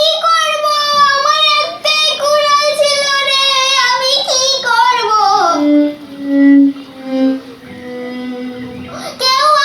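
A child singing a high, wavering melody that slides down about halfway through into lower held notes. The high singing starts again abruptly near the end.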